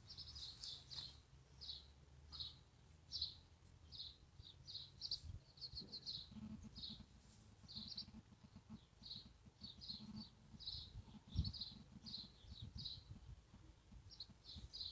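A small bird chirping over and over, faintly: short high chirps, two or three a second, in uneven runs.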